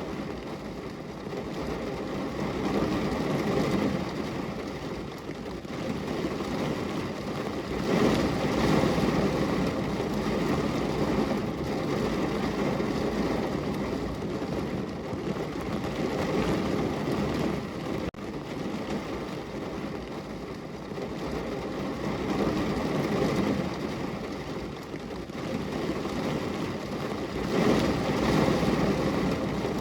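Heavy rain pouring down, a dense rushing noise that swells and eases every few seconds.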